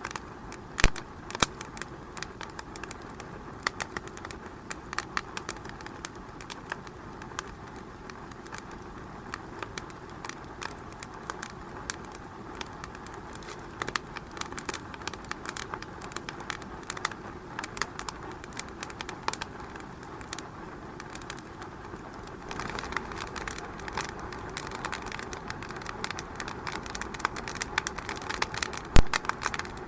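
Wood fire burning in a fireplace, crackling with many small irregular pops, one sharper pop about a second in and a louder one near the end; the hiss of the flames grows a little louder about two-thirds of the way through.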